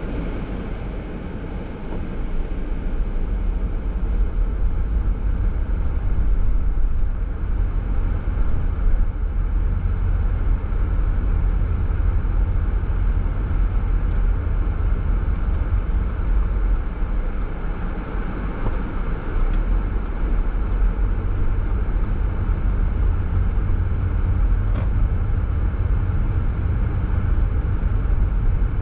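A car driving along a road: a steady low rumble of tyre and engine noise that holds even throughout.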